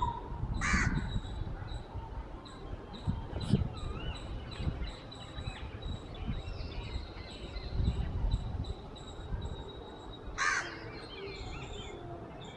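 Birds calling: two loud calls, about a second in and again near the end, with softer wavering chirps and a thin steady high tone between them, over a low rumbling background noise.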